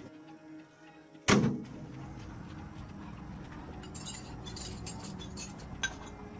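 A single loud knock about a second in, followed by a run of light clinks and ticks over a steady background.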